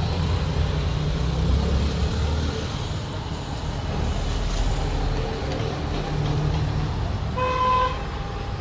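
Low steady rumble of motor vehicle engines, with a short horn beep near the end.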